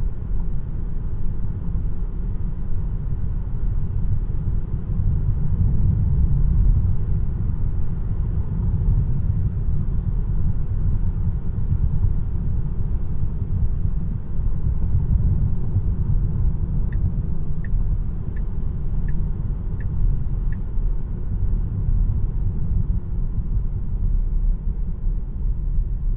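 Road and tyre rumble heard inside the cabin of a 2026 Tesla Model 3 Premium RWD at speed, steady and low, with no engine note. About two-thirds of the way through come six short, evenly spaced ticks, roughly 0.7 s apart.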